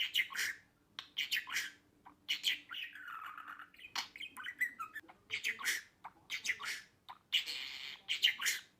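Budgerigar chattering: quick runs of short chirps and scratchy squawks with brief pauses, and a longer grating call near the end.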